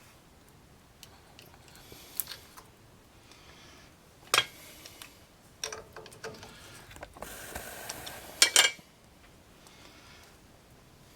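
Small metal parts and hand tools clinking and scraping on a front wheel hub while a cotter pin is worked into the spindle nut, with scattered sharp clicks and a louder clatter about 8.5 seconds in.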